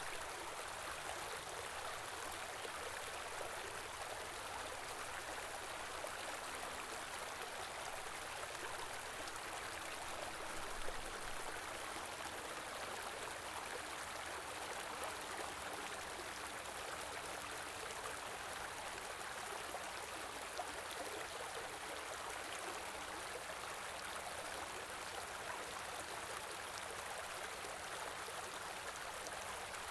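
Small stream flowing over rocks: a steady rush and babble of water, with a brief click about eleven seconds in.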